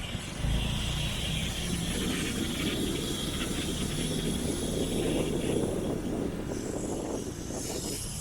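Motorbike engine running steadily while riding, mixed with road and wind noise; the sound gets louder about half a second in.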